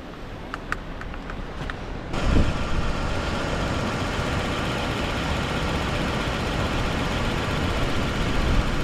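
A few light clicks, then about two seconds in the steady running of a car engine cuts in loudly and idles on: the car has just been jump-started after its battery went flat.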